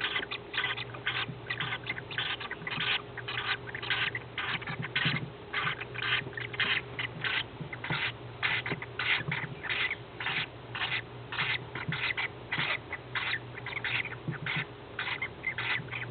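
Peach-faced lovebird chicks chirping continuously, a rapid run of short, raspy chirps, several a second, under a faint steady hum.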